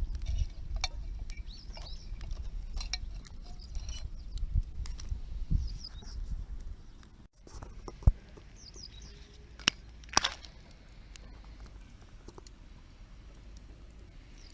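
Wood campfire crackling with scattered pops, and a sharper snap about eight seconds in. Birds chirp faintly in the background. A low rumble in the first half stops abruptly partway through.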